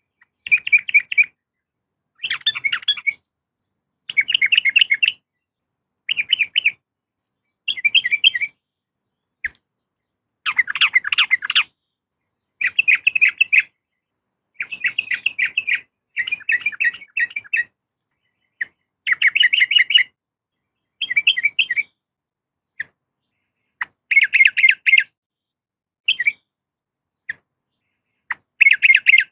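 Yellow-vented bulbul (trucukan) calling in short bursts of rapid, bubbly chattering notes, repeated every second or two, with a few single clipped notes in the second half. The calls are a female bulbul's call to a male.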